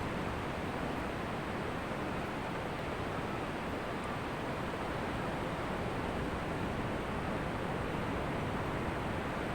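Ocean surf breaking and washing on a beach, a steady, even hiss with no single wave standing out.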